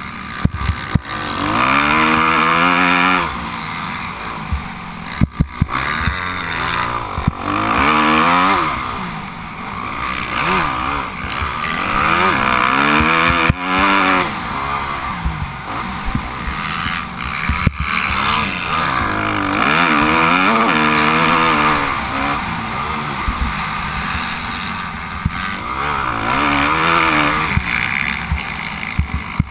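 Motocross dirt bike engine revving up and falling back again and again as the bike is ridden, with a few sharp knocks.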